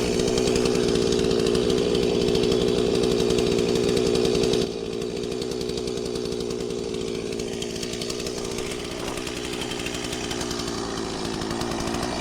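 Stihl 036 Pro two-stroke chainsaw running at high revs while bucking a felled tree into rounds, then dropping to a quieter, lower running level about five seconds in.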